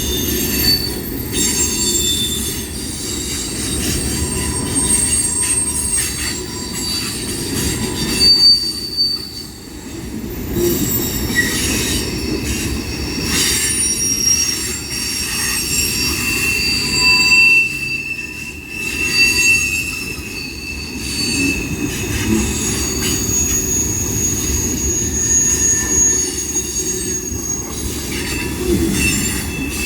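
Train passing close by, with a steady rumble under high, thin squealing tones from its wheels on the rails that come and go and shift in pitch, and occasional sharp knocks.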